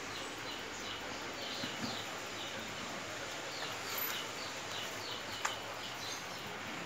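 A small bird chirping, short high falling notes repeated a few times a second, over a steady background hiss. One sharp click about five and a half seconds in.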